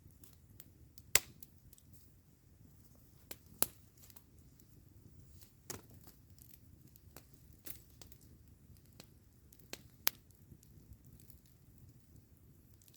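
Wood campfire crackling: scattered sharp pops every second or two, the loudest a little over a second in, near four seconds and about ten seconds in, over a low steady rumble.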